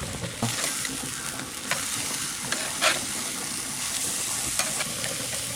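Food frying: a steady sizzle with a few scattered pops and crackles.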